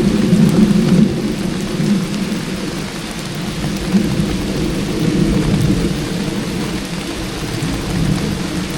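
Heavy rain drumming steadily on a van's metal roof, a dense low patter with a fainter hiss above it.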